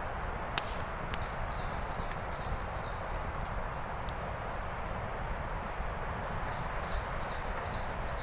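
Wind blowing steadily, with a low rumble of wind on the microphone. A small songbird twice sings a quick run of repeated high chirps, about a second in and again near the end.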